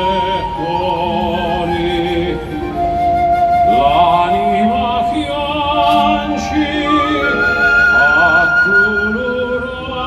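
Live orchestral music in a slow, melancholy instrumental introduction: long held melody notes with vibrato and sliding phrases over the orchestra's accompaniment.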